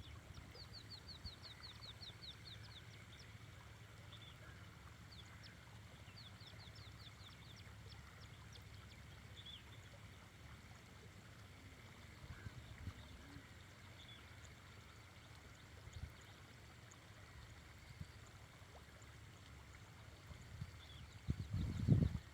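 A bird singing faintly: two quick trills of about a dozen short, high, downward-sliding notes each, followed by occasional single high calls, over a low steady rumble. A few low thumps, the loudest near the end.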